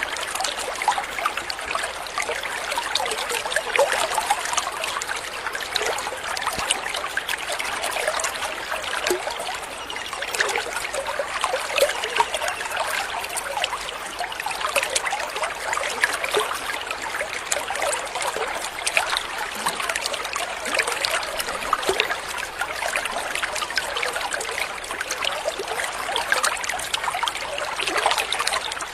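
Water running in a small stream: a steady, dense patter of little splashes.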